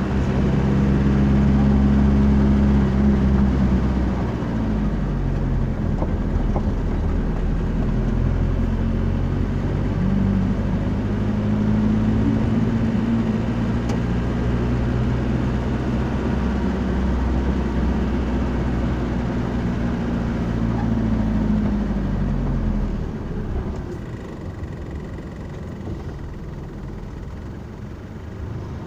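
A motor vehicle's engine running with a steady low drone, its pitch shifting slightly a few times; it gets quieter about twenty-three seconds in.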